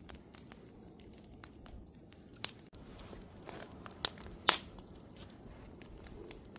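Wood campfire crackling, with a few louder sharp pops about two and a half, four and four and a half seconds in.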